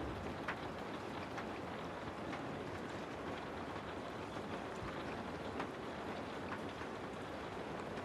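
Steady rain falling, with scattered heavier drops ticking now and then.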